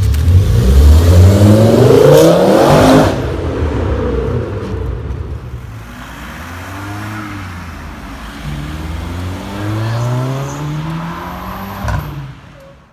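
A high-performance car's engine accelerating hard, pitch rising sharply and loudest in the first three seconds, then fading as it pulls away, with a second rising pull through the gears later before it cuts off near the end.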